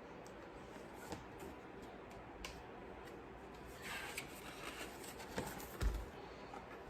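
Faint rustling and light clicks of a picture book's paper pages being handled and turned, with a soft low thump near the end.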